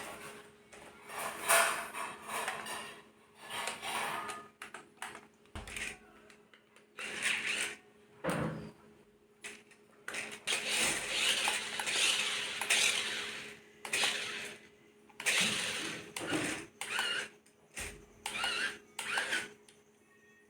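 Irregular bursts of rustling and handling as a remote-control toy car's packaging is opened, over a faint steady hum.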